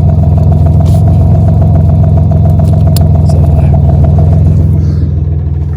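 A Buick's engine running steadily, ready to tow. It gets quieter about five seconds in.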